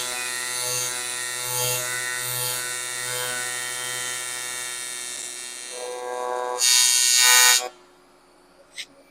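AC TIG welding arc on 6061 aluminium, a steady electric buzz with many overtones. It swells to a louder, harsher hiss near the end and then cuts off abruptly as the arc is broken, followed by one faint tick.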